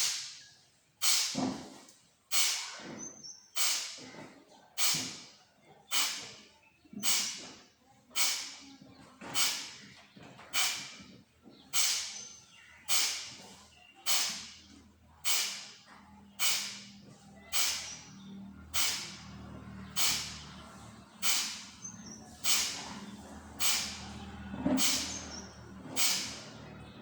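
A person doing Kapalabhati breathing: a steady run of short, forceful exhalations through the nose, about one every 1.2 seconds, each a sharp hissing puff that fades quickly, with the inhalations in between too quiet to be heard.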